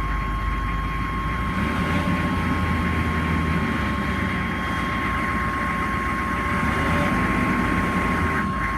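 Chevy 6.5-litre V8 turbo-diesel engine idling steadily, with a thin steady high tone over it.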